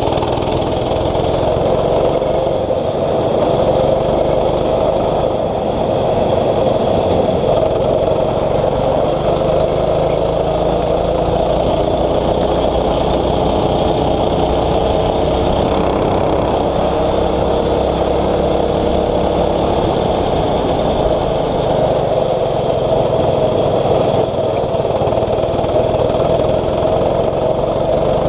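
A 6.5 hp four-stroke kart engine running at race pace, its pitch rising and falling repeatedly as it accelerates and lifts off through the corners.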